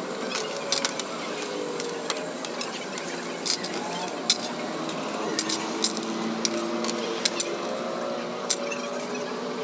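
Irregular light clicks and taps of metal tools and small parts being handled during work on a diesel injection pump, with a faint murmur of background voices underneath.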